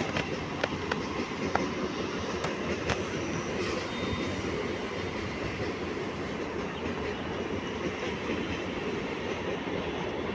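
Metro train running on its rails, a steady rumble with several sharp clicks in the first three seconds.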